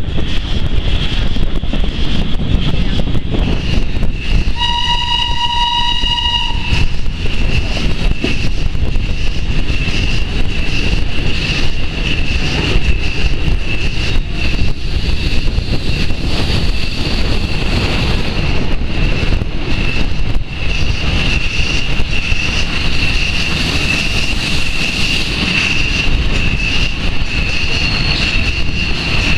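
Historic steam-hauled train running along the track, heard from an open carriage window: steady rolling rumble with a steady high whine over it. About five seconds in, a train whistle sounds one held note for about two seconds.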